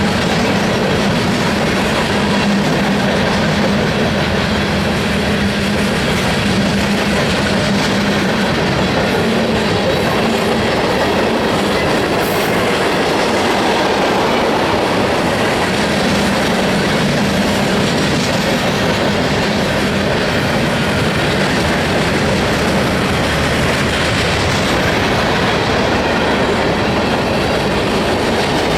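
CSX mixed freight train rolling past, a steady, loud, unbroken noise of wheels on rail.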